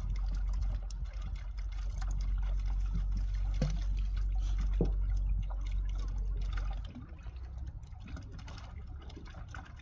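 Water sloshing and trickling, with a low rumble underneath that drops away about seven seconds in and a few faint clicks.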